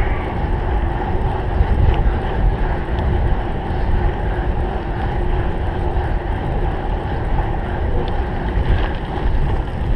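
Loud wind buffeting the microphone of a camera riding on a cyclocross bike at race speed, mixed with the low rumble of the bike rolling over rough ground.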